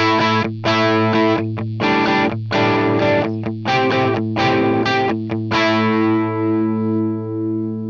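Electric guitar through the Line 6 HX Stomp's Marshall JCM 800 amp model, with the volume turned down almost to zero, playing a riff of short, separated chord hits, then one chord held and left ringing.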